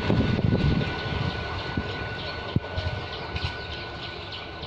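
An ICF Medha electric multiple unit (EMU) local train's wheels rumble over the rails at close range as the last coach goes by. The rumble drops away about a second in and keeps fading as the train moves off. There are a couple of sharp clacks from the track along the way.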